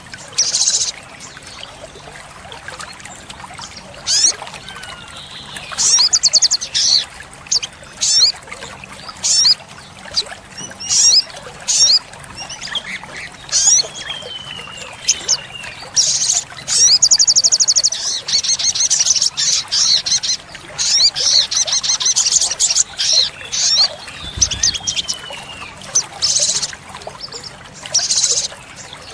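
Olive-backed sunbird singing: a string of short, high-pitched chirps and sharp calls, with fast rattling trills through the middle and a few falling whistles.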